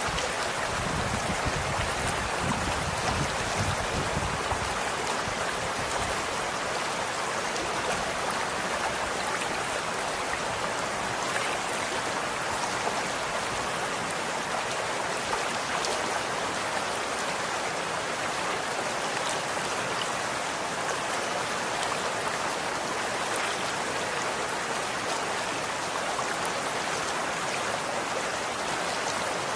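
Running water flowing steadily, an even rushing, with a little more low rumble in the first few seconds.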